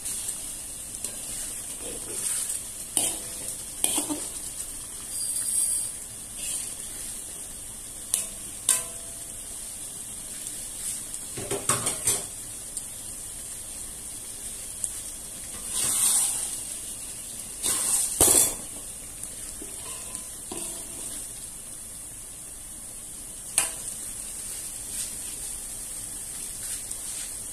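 Sauce sizzling in a wok as eggs cook in it. A slotted spatula scrapes and knocks against the pan in several short bursts while the eggs are stirred through.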